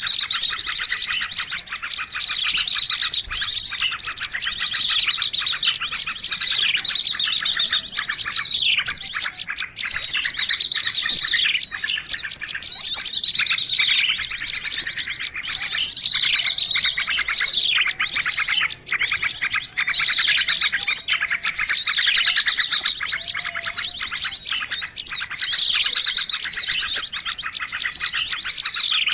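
A dense chorus of many small songbirds chirping and trilling without a break, with a call sliding down in pitch every couple of seconds. It is a bird-lure (pikat) recording played to draw small birds in.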